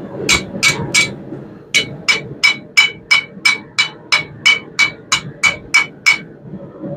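Blacksmith's hammer striking steel on an anvil, each blow ringing. Three blows, a short pause, then a steady run of about a dozen more at roughly three a second.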